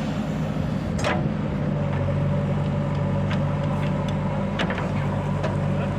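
Diesel engine of earthmoving or farm machinery running steadily, with a few sharp knocks about a second in and again near the end.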